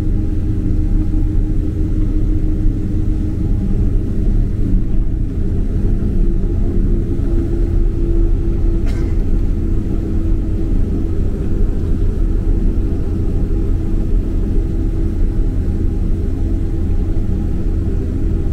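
Steady low rumble of a Boeing 767-300's engines and airflow heard from inside the passenger cabin, with a steady hum over it and a faint click about nine seconds in.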